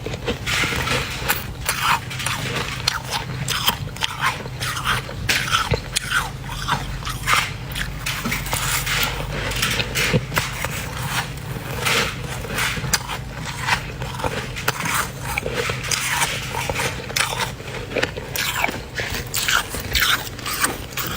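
Mouthfuls of dry, flaky freezer frost being bitten and chewed: a dense, uneven run of crisp, squeaky crunches, several a second, over a faint low hum.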